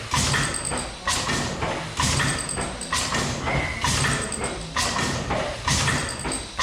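Restored stationary steam mill engine running at a steady rhythm of about one beat a second, each beat a hissing rush.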